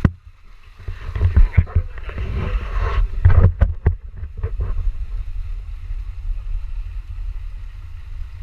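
Wind buffeting the microphone as a steady low rumble, with a cluster of knocks and rustles between about one and four seconds in.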